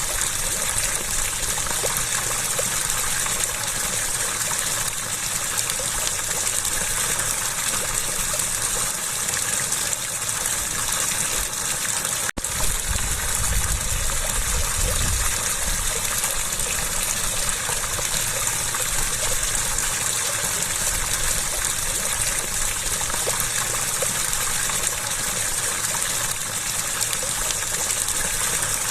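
Water gushing and splashing in a steady rush, with a momentary break about twelve seconds in.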